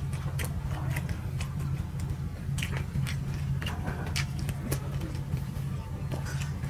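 Two people chewing and biting soft chitoi pitha rice-flour pancakes with mashed vorta: irregular wet mouth clicks and smacks. Under them runs a steady low drone from a tractor ploughing a nearby field.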